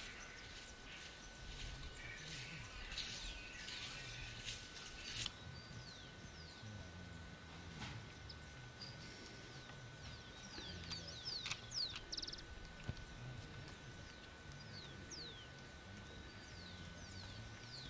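Birds calling: many short, falling high chirps, thickest in the second half, over a low rumble and a faint steady high tone.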